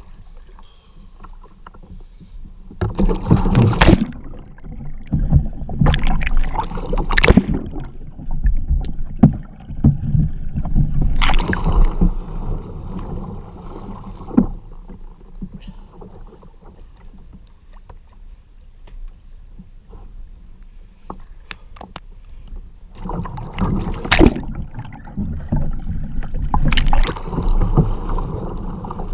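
Water splashing and sloshing around a kayak and paddle as the kayaker capsizes and rolls back up: several loud splashes come in bursts, with quieter lapping water between.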